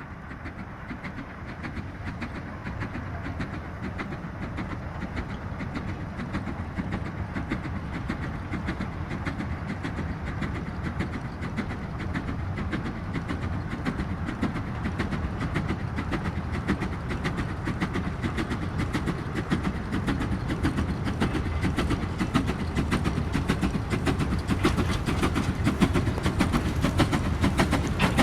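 A train running on rails: a steady rumble with a fast clatter of wheels, growing gradually louder.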